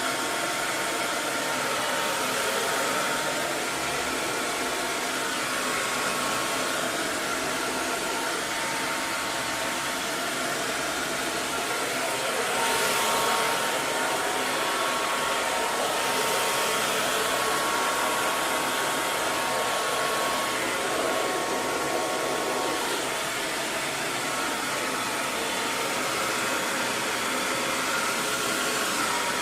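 Hair dryer running steadily: an even rush of blown air with a faint, steady motor whine.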